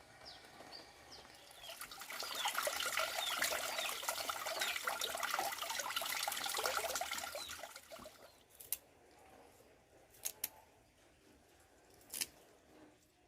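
Water running and splashing for several seconds, then stopping, followed by a few sharp clicks or knocks.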